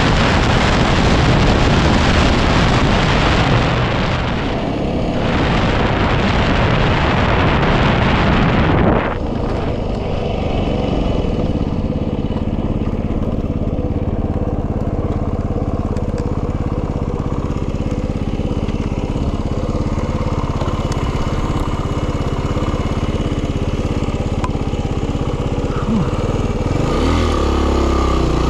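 Yamaha WR250R's single-cylinder engine running under heavy wind noise on the microphone. About nine seconds in, the wind rush drops away suddenly and the engine's steady note comes through clearly.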